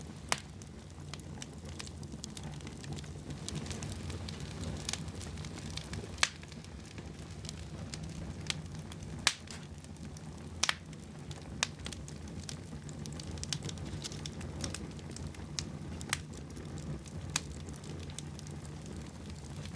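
Wood fire burning in a fireplace: a steady low rumble of the flames with irregular sharp crackles and pops from the burning logs, about one every second or two.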